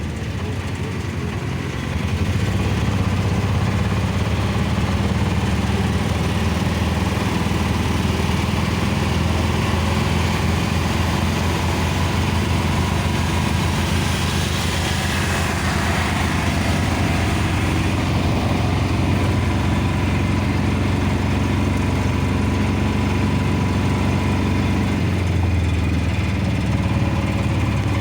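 A running vehicle: a steady low engine rumble with hiss above it, briefly brighter around the middle.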